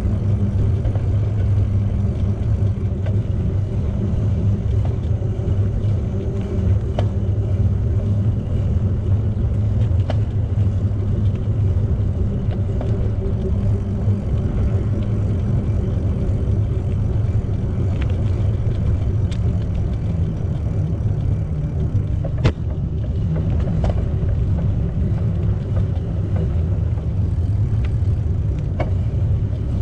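Steady low rumble of wind buffeting the microphone and tyres rolling on pavement as a bicycle is ridden, with a few sharp clicks or knocks, the loudest about two-thirds of the way through.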